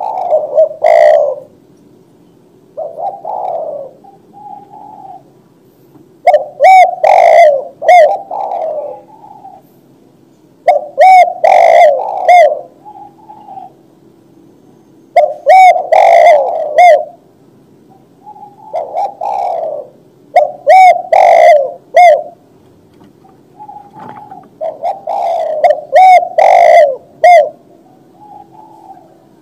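Spotted dove (tekukur) cooing: a loud, repeated phrase of several low coo notes, given about every four to five seconds.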